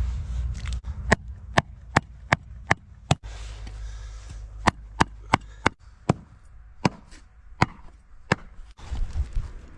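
A chopping knife hacking through hard cured pork ribs in a series of sharp chops, about two to three a second in short runs, with brief pauses between runs.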